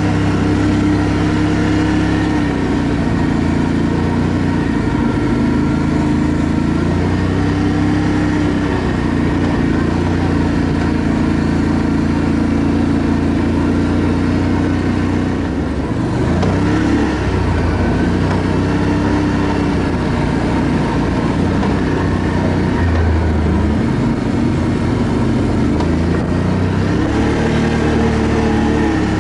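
ATV engine running under way, its pitch rising and falling as the throttle is opened and eased off.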